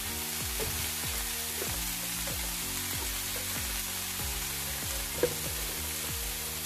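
Chopped amaranth leaves frying in oil in a pan, a steady sizzle, with background music of held low notes. A brief light click about five seconds in.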